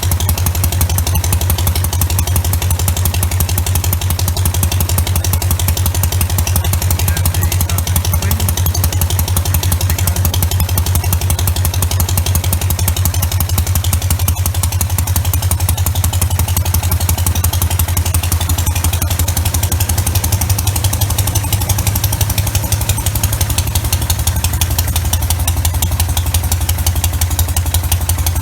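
Douglas 350 flat-twin stationary engine running steadily while driving a cut-down propeller, with a rapid, even exhaust beat.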